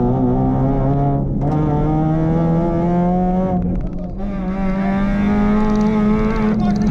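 Suzuki rally car's engine heard from inside the cabin, climbing in pitch under hard acceleration. It breaks off briefly and drops back three times, about a second in, around four seconds in and near the end, as it shifts up a gear.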